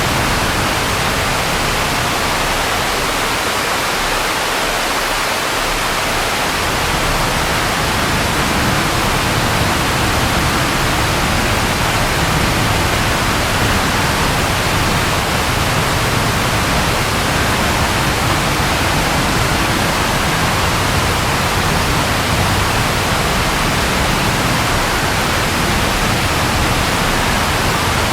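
Steady rain falling, a continuous even hiss, with a low rumble underneath that drops away briefly a few seconds in and then returns.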